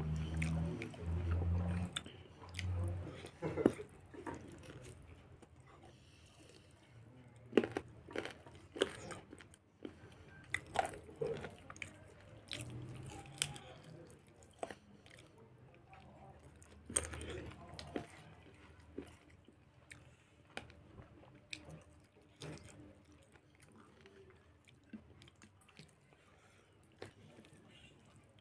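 Close-up sounds of a person eating rice and meat by hand: chewing with frequent sharp mouth clicks and smacks. The clicks come thickest through the middle and thin out near the end.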